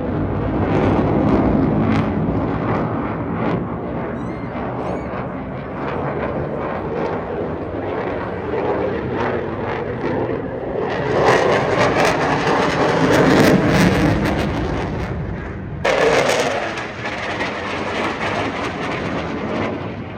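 RAF Eurofighter Typhoon jet fighter flying its display, the noise of its twin jet engines swelling and fading as it manoeuvres. It grows loudest about eleven seconds in and comes back suddenly near sixteen seconds.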